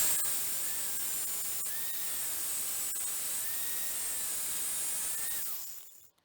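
Cut-off wheel tool running on a metal door-hinge reinforcement plate: a steady hissing noise with a high whine whose pitch wavers. It dies away near the end.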